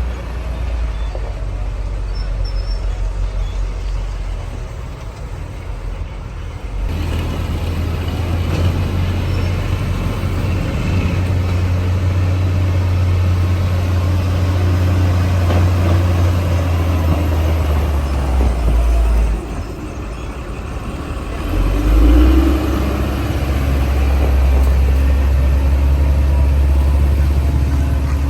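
Bulldozer's heavy diesel engine running and working, a steady low sound that gets louder about a quarter of the way in, drops briefly about two-thirds through, then picks up again.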